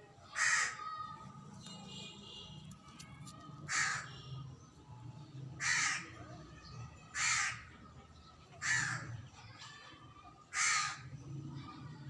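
A bird calling six times, each call short and harsh, one every one and a half to three seconds, with fainter chirps from other birds between the first two calls.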